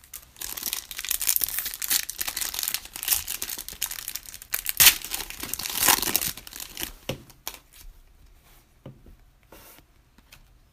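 Wrapper of a Panini Prizm trading card pack being torn open and crinkled, a dense crackling that fades to a few light clicks after about seven seconds.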